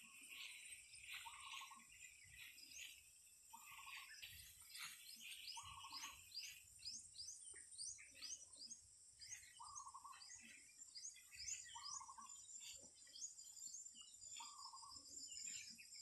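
Faint birdsong: a short low call repeated about every two seconds, with runs of quick rising chirps between, over a steady high hiss.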